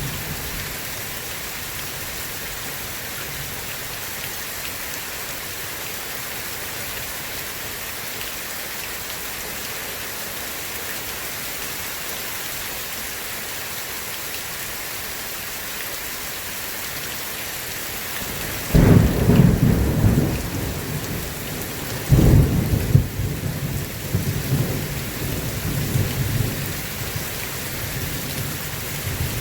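Steady heavy rain, then thunder: a sudden loud clap about 19 seconds in and a second about 22 seconds in, rumbling on more weakly under the rain to the end.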